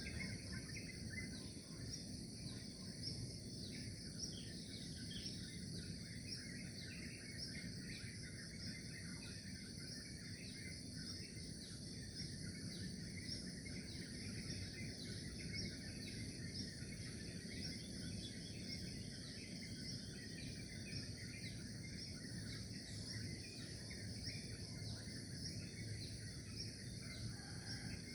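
Outdoor nature ambience: a steady high trilling of insects with many short bird chirps over it, and a low steady rumble underneath.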